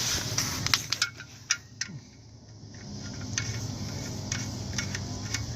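Light metallic clicks and taps of the oil drain plug and its washer being threaded back into the oil pan, with a few sparse clinks later over a low steady hum.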